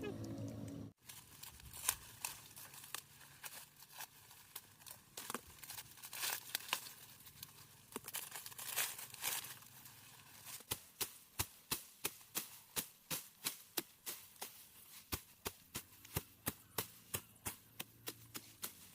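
Rice stalks being cut by hand with a sickle: crisp tearing cuts and rustling straw. The cuts are irregular at first, then settle into a steady rhythm of about two strokes a second.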